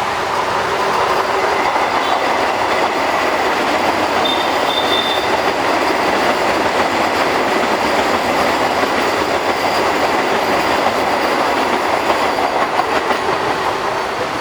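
Vande Bharat Express electric multiple-unit train running past: a loud, steady rush of wheel and coach noise with some clatter on the rails, and a brief high squeal about four seconds in.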